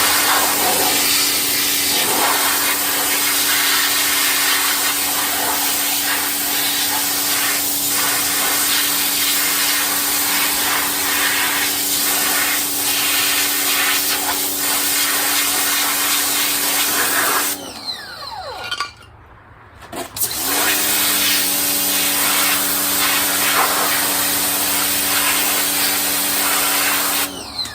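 Ryobi pressure washer running and spraying, a steady motor and pump hum under the hiss of the water jet. About two thirds of the way through, the motor winds down and stops when the trigger is released, then spins back up about three seconds later and keeps spraying.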